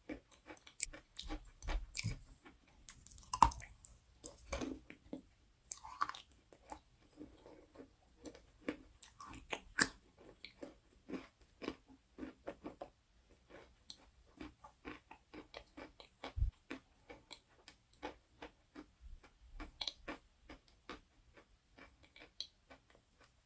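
Close-up crunching: many short, crisp cracks and crackles in a quick, irregular stream, with a few louder snaps.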